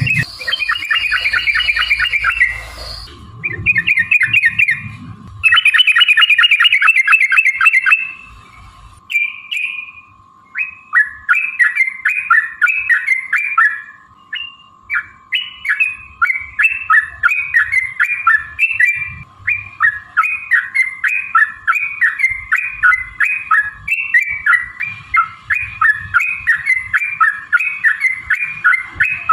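Yellow-vented bulbul (trucukan) singing: fast chattering runs for the first several seconds, then a long string of short bubbly notes, several a second. A faint steady tone runs underneath.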